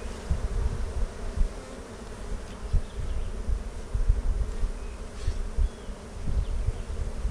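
Many honeybees buzzing around an open beehive, a steady hum, with uneven low rumbling bursts throughout.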